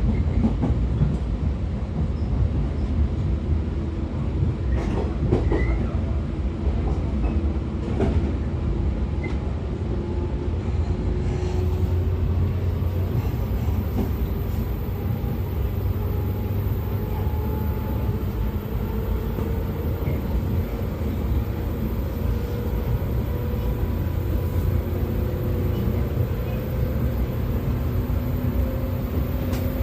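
113-series electric train running at speed, heard from inside a motor car: a steady low rumble of wheels on rail under the whine of its MT54 DC traction motors and gears, which creeps slowly higher in pitch as the train gathers speed. A few faint clicks are heard along the way.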